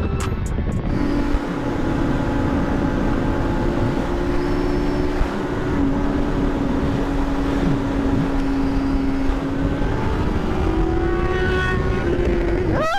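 Sportbike engine running at a steady cruise, its note holding even and rising a little near the end, over a constant rush of riding noise.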